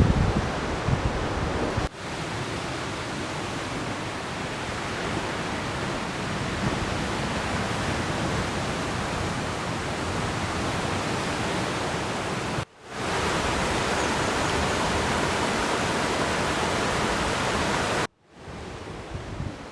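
Steady, even rush of a waterfall, cut off briefly three times where shots change. Low wind buffeting on the microphone comes at the start and again near the end.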